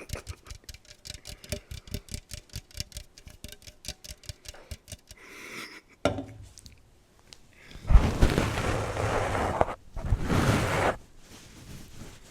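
ASMR trigger sounds made right at the microphone: rapid tapping, several taps a second, for about six seconds, then two loud noisy rustling bursts, the first about two seconds long and the second about one.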